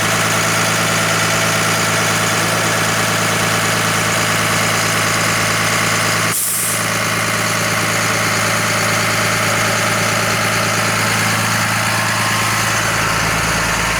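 Cummins 5.9-litre turbo diesel of a 2003 Blue Bird TC2000 bus idling steadily, with a brief dip in the sound a little after six seconds in.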